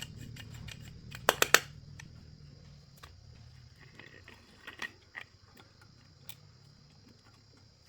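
Hand-work noises during bicycle repair: three quick, sharp clinks of metal parts about a second and a half in, then scattered light taps and ticks, over a low hum that fades away.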